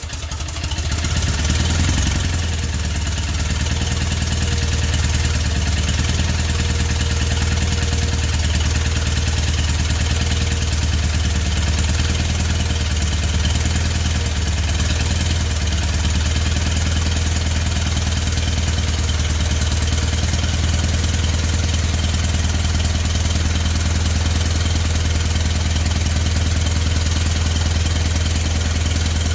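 Onan NHC two-cylinder opposed air-cooled engine of a skid steer, just caught on an extreme cold start: it picks up speed over the first couple of seconds, then runs steadily. It is running with next to no compression on cylinder one, its intake valve seat coming loose.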